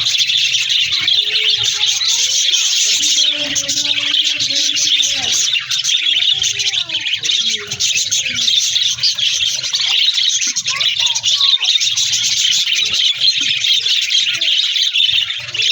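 A flock of budgerigars chattering and warbling, a dense, unbroken high-pitched twittering.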